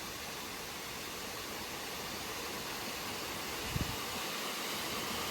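Steady rush of a rocky mountain stream and its small waterfalls, growing a little louder near the end, with one brief low thump a little before four seconds in.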